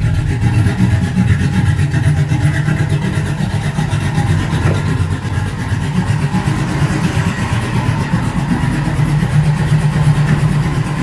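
Cammed LS V8 engine of a GM pickup idling steadily just after a cold start in −15 °C weather, having sat for about two months. A deep, even rumble with a steady pulse and no change in speed.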